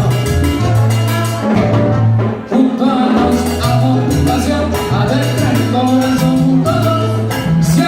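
Live salsa band playing: a moving bass line under percussion and melody, with a short break about two and a half seconds in, ending on a sharp hit as the band comes back in.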